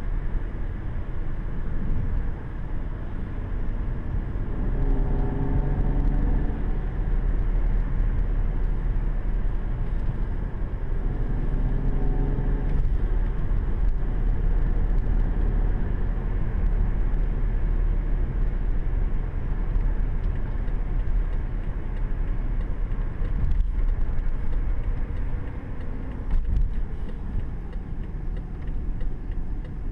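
BMW 550i F10's twin-turbo V8 running under way at speed, heard from inside the cabin over a heavy low rumble of road and wind noise. The engine's pitched note comes up clearly twice, about five and about eleven seconds in.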